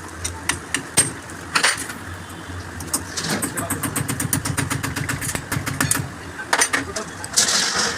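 Mechanical work sounds: a few sharp metal knocks, then a few seconds of rapid, even clicking over a low rumble, and more knocks with a short hiss near the end.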